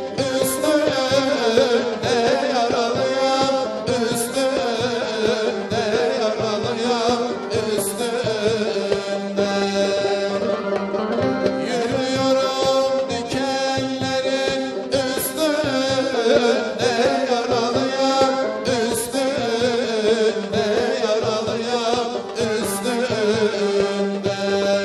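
Turkish fasıl ensemble music: a voice sings a wavering melody over melodic instruments, with hand-drum strokes keeping the beat.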